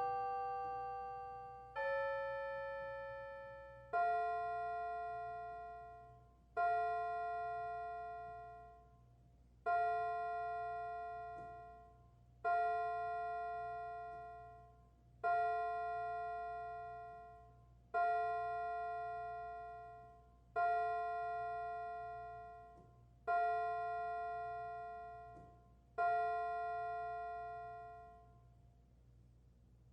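Piano playing slowly: two changing chords, then from about four seconds in the same two-note chord struck nine times, roughly every two and a half to three seconds, each one left to ring and fade.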